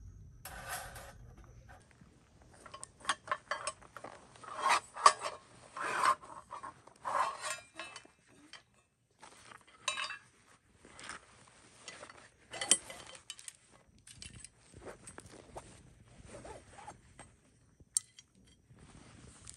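Metal pots, dishes and utensils clinking and clattering as they are handled: a run of irregular knocks, busiest in the first half, with one sharp clank near the middle.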